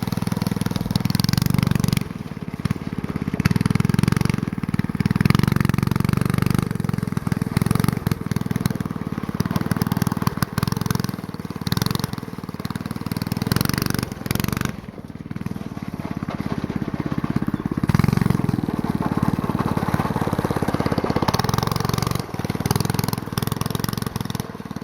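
A go-kart's small 4 hp single-cylinder engine, fitted with a cut-down straight-pipe exhaust, running loud and revving up and down, with brief dips in level a few times.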